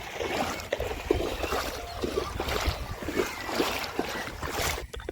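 Floodwater sloshing and splashing: a steady rushing noise with many small irregular splashes.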